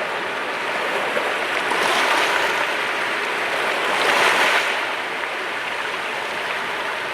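Sea waves breaking and washing on the shore, a continuous rushing wash with two louder surges, about two seconds in and again around four seconds.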